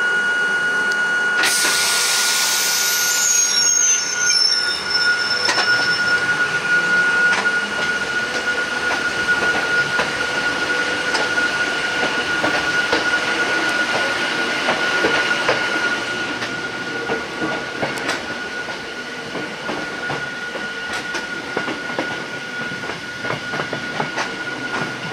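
Hakone Tozan Railway Moha 2 electric car running, heard from inside the car. A loud burst of hiss starts about a second and a half in and fades by about four seconds. After that come repeated clicks of the wheels over the rails, over a steady high whine.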